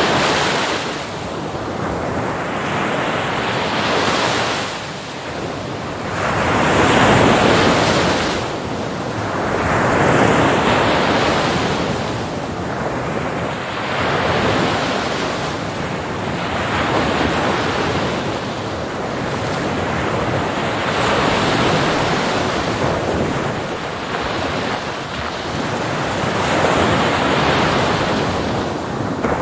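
Ocean surf on a beach, waves breaking one after another, each a rush of water that swells and fades about every three seconds.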